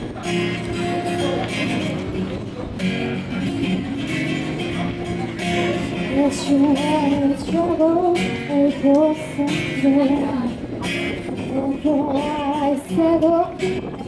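A woman singing to a strummed acoustic guitar. The guitar plays alone at first and the voice comes in about six seconds in.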